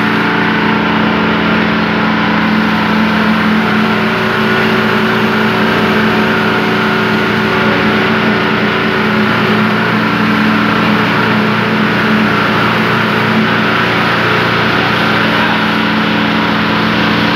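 Engine of concrete-pouring machinery running steadily and loudly, a constant hum of several tones with no change in speed.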